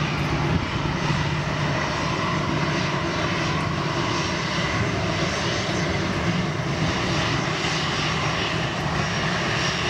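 Aircraft engines: a loud, steady rush with faint high whining tones running through it.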